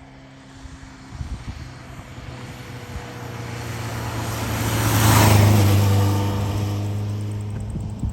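1977 Kawasaki KZ650B1 motorcycle with its air-cooled inline-four engine running as it rides past. It grows steadily louder to a peak about five seconds in, then fades away.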